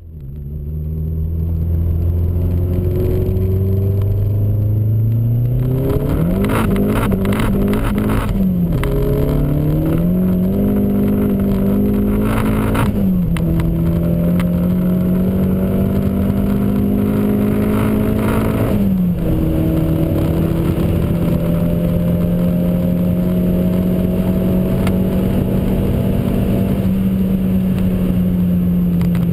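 Tuned Saab 9-3 Aero's 2.3-litre turbocharged four-cylinder (GT30 ball-bearing turbo, about 405 wheel horsepower) pulling at full throttle from about 50 to 260 km/h, heard from inside the cabin. The engine note climbs through the revs in each gear and drops briefly at three gear changes, about a third, halfway and two thirds of the way through. A run of sharp clicks sounds just before the first change.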